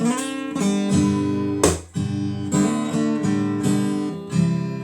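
Acoustic guitar being strummed, chords ringing on, with one hard strum about a second and a half in.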